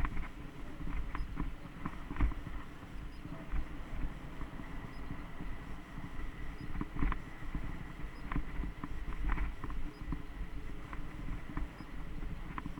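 Mountain bike riding over a rough dirt trail: a steady low rumble with wind on the microphone, broken by irregular clicks and rattles as the bike goes over bumps.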